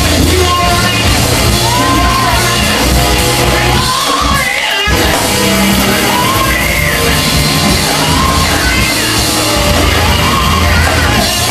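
Live gospel praise and worship music: keyboard-led accompaniment with loud singing, the voice gliding up and down through long phrases. The bass drops out briefly about four and a half seconds in.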